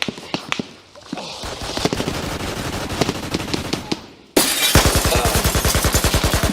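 Gunfire: scattered single shots and short bursts, then about four seconds in a sudden, much louder stream of close automatic fire at roughly ten rounds a second, still going at the end.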